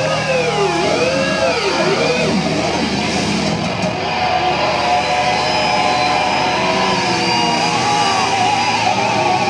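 Heavy metal played live on loud distorted electric guitars. In the first two seconds the guitars swoop up and down in pitch about once a second, then settle into held, wavering tones over a dense wash of distortion.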